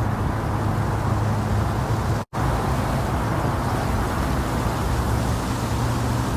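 Steady, low, rumbling white noise meant to simulate the sound of the womb for a sleeping baby. It drops out to silence for an instant about two seconds in.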